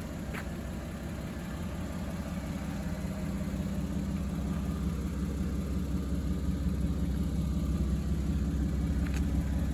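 1997 Toyota Supra Twin Turbo's 2JZ-GTE twin-turbo inline-six idling steadily, running smoothly, and growing gradually louder.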